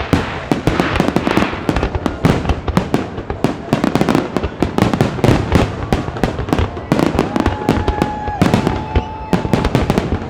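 A fireworks display going off in dense, rapid succession: many sharp bangs and crackles close together. About two thirds of the way through, a steady tone is held for about a second, twice.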